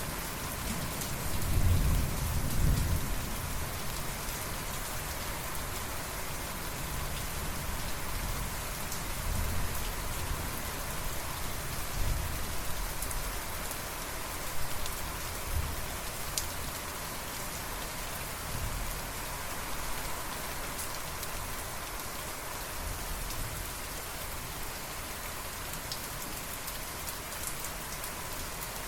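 Steady rain falling, with low rumbling thunder that is loudest about two seconds in and then returns several times as fainter rumbles.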